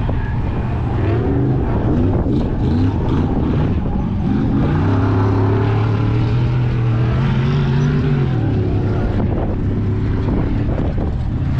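Car engine running and being revved, its pitch wavering up and down. About halfway in it holds a steady higher rev for a few seconds, then drops back.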